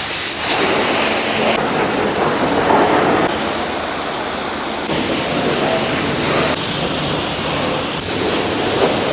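Pressure washer jet spraying: a loud, steady hiss of water, changing in tone abruptly a few times.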